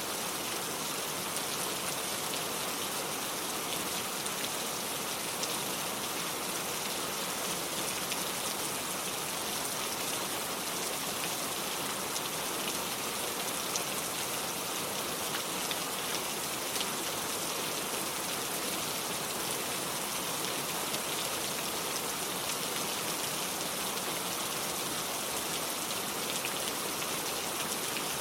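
Steady rain falling and pattering on surfaces, an even hiss dotted with many small drop ticks.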